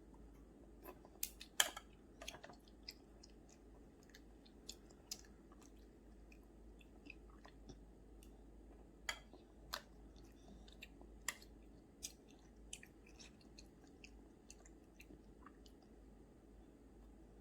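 A small child chewing food, with scattered small clicks and mouth smacks; the loudest comes about one and a half seconds in.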